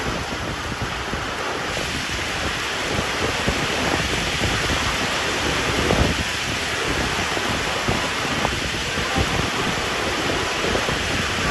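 Heavy rain pouring down in a thunderstorm, a steady hiss, with gusts of wind buffeting the microphone. The strongest gust comes about six seconds in.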